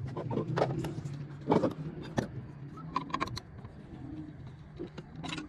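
Sharp metallic clicks and knocks, like tools or parts being handled, over a low steady hum that is strongest in the first two seconds.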